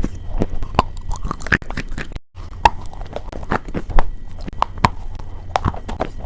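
Close-up ASMR crunching of something brittle: an irregular run of sharp crackles and crunches, broken by a short cut to silence about two seconds in.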